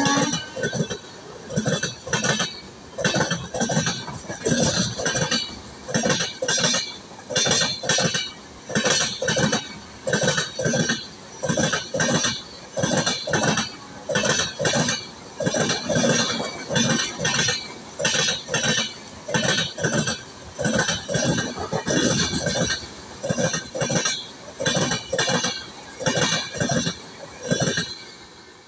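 Passing express train's LHB coaches: the wheels clatter over the track in a steady rhythm of paired knocks, about one group a second. The clatter fades away near the end as the last coach goes by.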